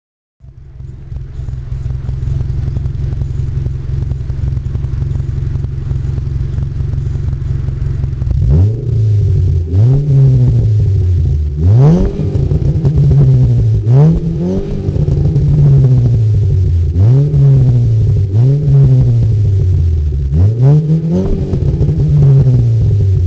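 Vehicle engine exhaust idling steadily, then from about eight seconds in revved in a series of quick blips. Each rev rises sharply in pitch and falls back toward idle, about every one and a half to two seconds.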